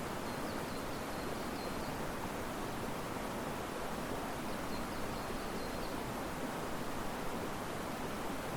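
Steady rush of river water and wind through riverside trees. A faint high chirping trill comes twice, about half a second in and again around five seconds.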